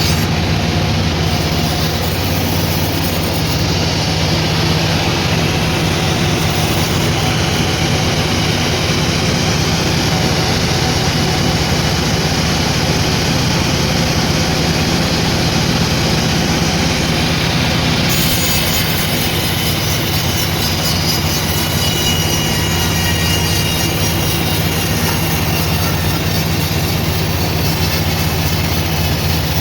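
Sawmill machinery running steadily: a constant low hum under a dense whirring noise, with the higher-pitched part of the sound changing about eighteen seconds in.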